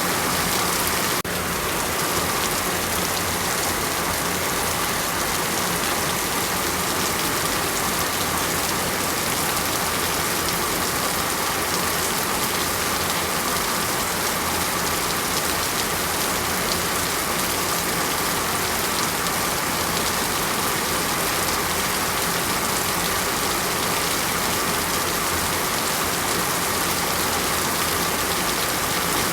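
Heavy rain falling steadily, a dense even hiss of drops on surfaces, with a slight abrupt change about a second in where the recording is spliced.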